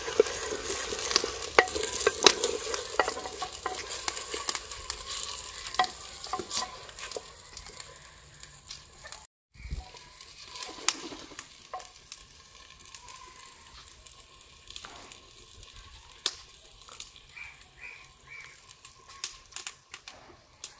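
Wooden spoon stirring and scraping onions, tomatoes and green chillies frying in oil in a clay handi, with a steady sizzle and frequent clicks of the spoon against the pot. About nine seconds in the sound cuts briefly, and after it the sizzle is fainter with only scattered clicks.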